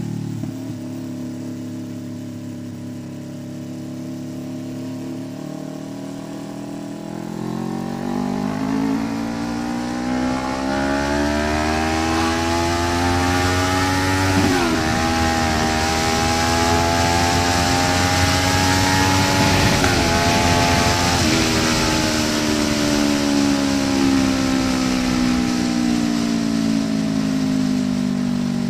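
Kawasaki Ninja 650 parallel-twin engine through an SC-Project exhaust while riding: steady at first, then the engine note climbs for about fourteen seconds under acceleration with two brief dips, and falls steadily as the bike rolls off and slows near the end.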